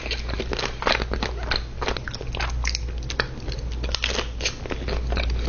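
Close-miked biting and chewing of a dessert: a dense, irregular run of small crackling and smacking mouth sounds. A steady low hum sits underneath.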